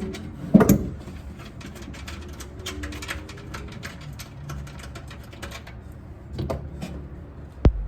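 Hand-tool work on bolts: a run of small metallic clicks and taps, with a heavier knock about half a second in and a single sharp click near the end.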